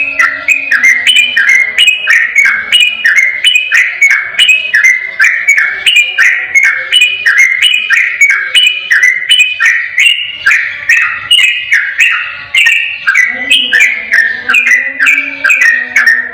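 Sooty-headed bulbul singing a fast, unbroken run of clear whistled notes, about three a second, without a pause.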